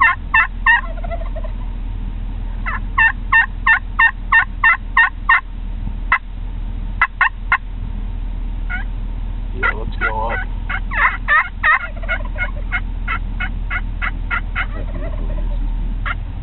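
Hen turkey yelps from a call, given in runs of evenly spaced notes about three a second, with wild tom turkeys gobbling in answer, a dense warbling burst about ten seconds in. A low steady hum runs underneath.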